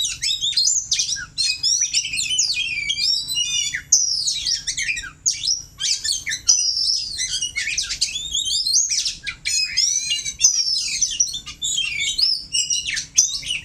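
Oriental magpie-robin (kacer) singing a fast, varied song of whistled sweeps, slurs and trills, almost without pause.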